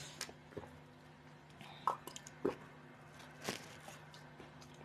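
Faint eating sounds: biting and chewing a sandwich, with a few short scattered crackles and clicks, over a low steady hum.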